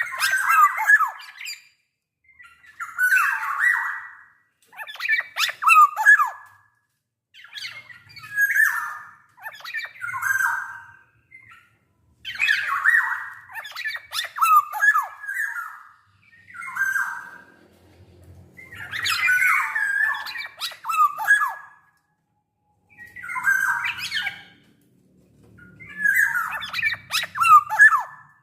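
Black-naped oriole (kepodang) calling in short phrases of a second or two with brief pauses between, about a dozen in all. The phrases mix harsh notes with whistled notes, many of them sliding down in pitch.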